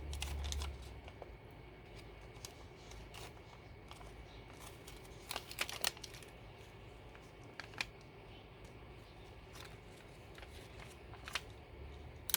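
Faint handling of paper-craft materials: light rustling with scattered small clicks, a short cluster about halfway through and several more near the end.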